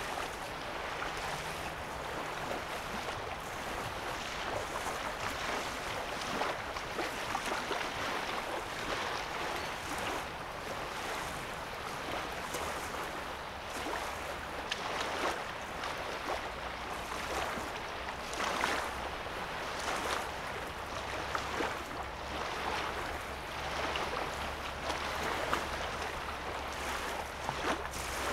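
Small waves lapping at a sandy lake shoreline, a continual wash of little irregular splashes, with a low steady rumble underneath.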